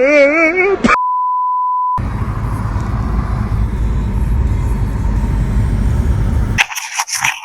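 Music with a wavering sung melody cuts off about a second in, followed by a one-second electronic beep at a single steady pitch. Then comes a steady low vehicle rumble, ending near the end in a few sharp knocks.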